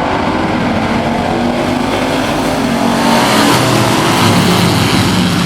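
A pack of Thunder Truck race trucks' engines revving hard together as the field takes the green flag, many engines overlapping, swelling louder about three seconds in.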